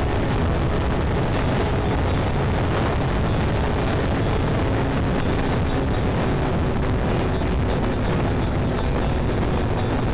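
Steady, loud wind buffeting and road noise on the microphone of a moving Yamaha Tricity 155 scooter, with the scooter's engine droning faintly underneath.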